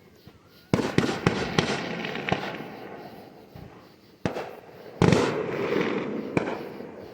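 Fireworks going off: a quick run of several sharp bangs about a second in, then single bangs about four, five and six seconds in, each trailing off into a fading rumble.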